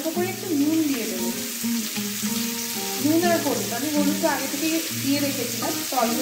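Potato and raw papaya cubes sizzling as they fry in oil in a kadai, stirred with a spatula, with background music playing over it.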